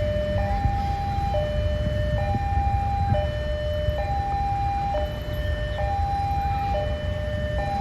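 Level-crossing warning alarm sounding a two-tone signal, alternating a lower and a higher tone about once a second, the sign that a train is approaching the crossing. A steady low rumble runs beneath it.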